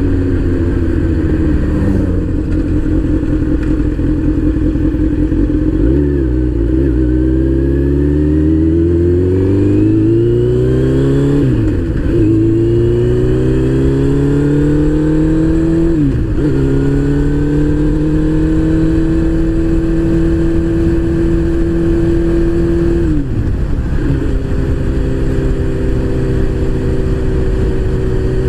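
Motorcycle engine heard from the bike, accelerating through the gears: the pitch climbs, drops sharply at each of four upshifts, then holds at a steady cruise.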